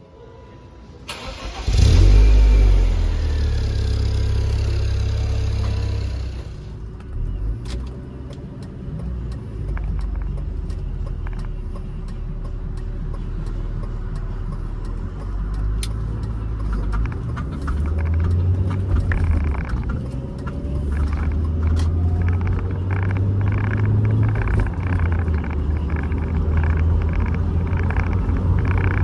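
1996 BMW Z3's four-cylinder engine cold-started: it catches suddenly about two seconds in and runs at a fast cold idle with a hiss for a few seconds, then settles to a lower idle. Sharp clicks run through the middle, and the engine note swells up and down a few times in the second half.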